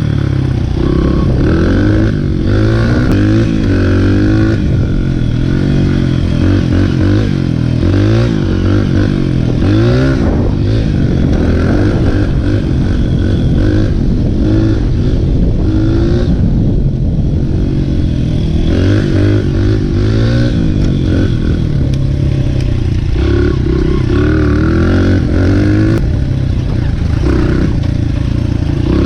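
Dirt bike engine running hard and revving up and down, its pitch rising and falling every second or two as the throttle is worked, with some rattling.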